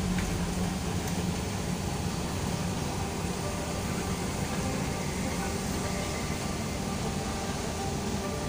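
Steady hum of a ship's machinery with an even hiss over it, heard on the bridge while the ship is manoeuvred alongside a berth.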